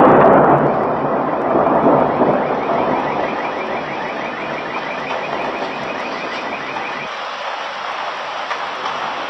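Thunder rumbling and slowly dying away. From about two seconds in to about seven, a faint high warbling tone repeats rapidly over it.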